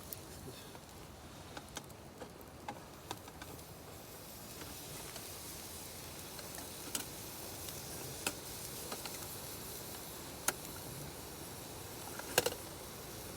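Wood fire crackling: a steady faint hiss with irregular sharp pops, a couple of louder ones near the end.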